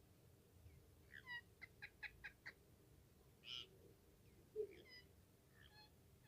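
Pet parrot giving short chirps: a quick run of about six notes, then a rougher squawk, then scattered chirps near the end. A brief soft thump just after the middle.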